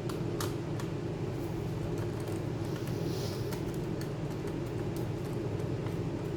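A steady low hum with a few faint light clicks scattered through it.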